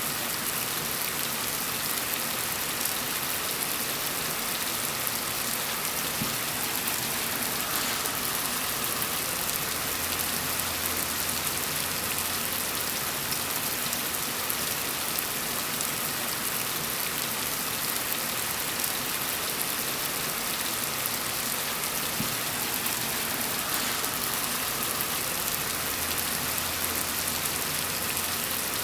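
Steady gentle rain falling on a surface, an even hiss of many small drops.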